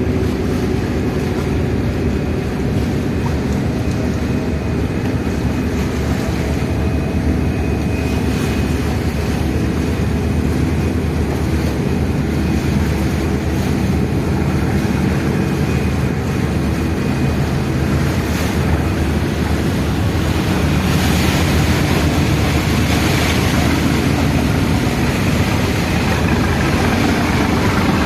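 Passenger ferry's engine droning steadily, with water and wind rushing past the boat; the rushing grows louder about two-thirds of the way through.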